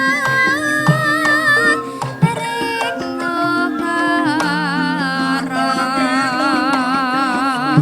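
Javanese gamelan ensemble playing: sustained pitched metal notes under a wavering, vibrato melody that grows stronger about halfway through, with short low drum strokes.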